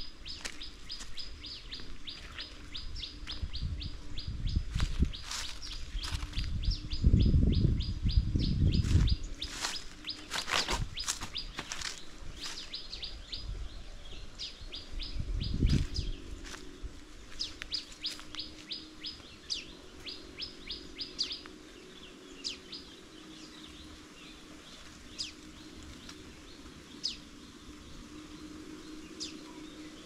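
A bird calling a rapid series of short high notes, about four a second, in two long runs, then a few single chirps near the end. Footsteps crunch through dry leaves and undergrowth around the middle.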